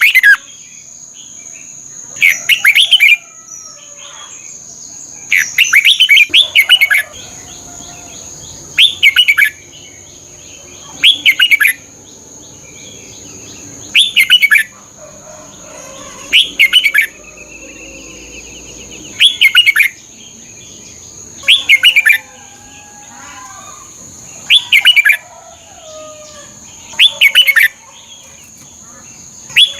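Red-whiskered bulbul singing short, loud, chirping phrases about every two and a half seconds, with one longer double phrase about six seconds in. Fainter bird notes sit between the phrases, over a steady high-pitched tone.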